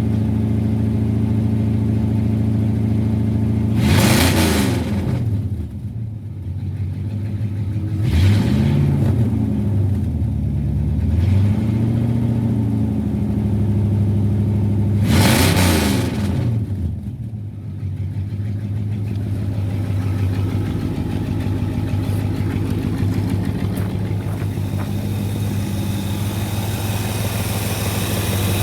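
Rebuilt car engine with Vortec heads and ram's horn exhaust manifolds idling, blipped four times: sharp revs about four seconds in and again about halfway through, two gentler ones between, then settling back to a steady idle.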